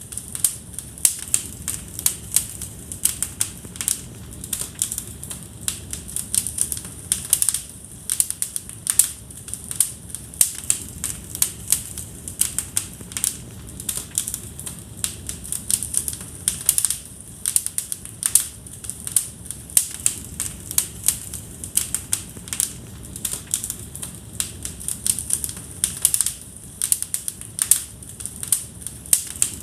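Wood fire crackling in a fireplace: many sharp, irregular pops and snaps, several a second, over a low steady rumble of the flames.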